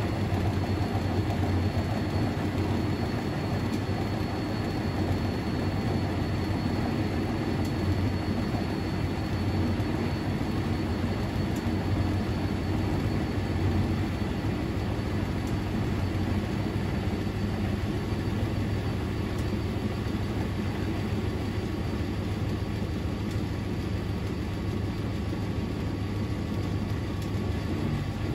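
Privileg 3001 S washing machine (Zanussi-built, three-speed gear motor) running steadily: an unbroken low hum and rumble with a faint high whine on top.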